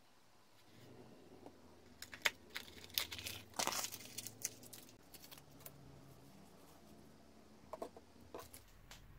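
Rustling and crinkling with a few light clicks: a burst from about two to four and a half seconds in, and a couple more near the end.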